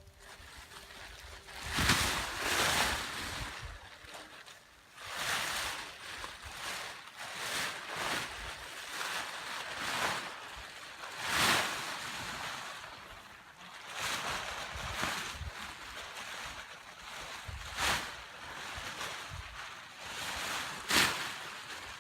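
Gusty wind buffeting the microphone in irregular surges, with a large tarp rustling and flapping as it is handled.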